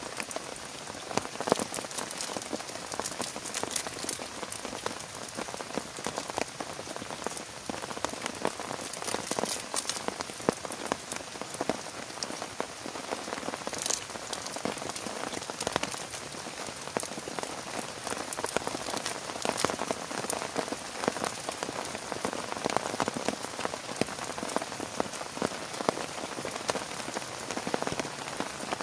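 Heavy rain falling steadily, with many individual drops striking a surface close by.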